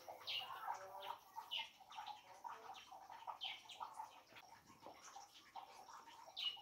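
Birds chirping faintly in the background: a short falling call repeated several times, with softer twitters in between.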